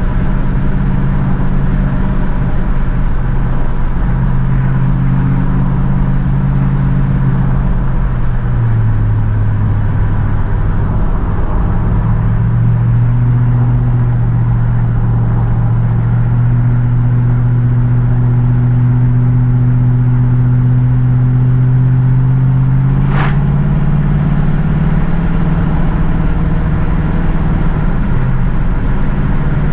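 A 1967 Pontiac Firebird's 327 cubic-inch V8 running under way at a steady cruise. Its pitch drops about a third of the way through, holds steady, and rises slightly near the end. About three-quarters through there is one brief, sharp, high-pitched sweep.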